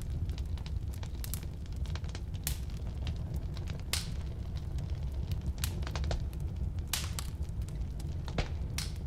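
Firewood burning in a fireplace or wood stove: a steady low rumble of flame with irregular sharp crackles and pops from the logs.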